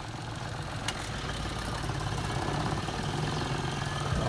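Car engine idling with the air conditioning switched on, growing gradually louder, with a single sharp click about a second in.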